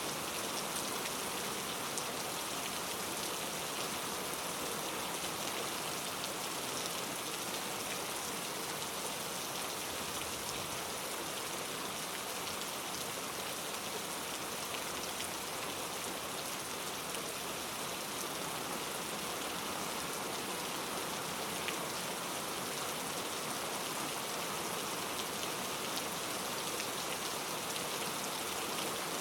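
Steady rain: an even, dense hiss of rainfall with scattered individual drops ticking through it, holding one level throughout.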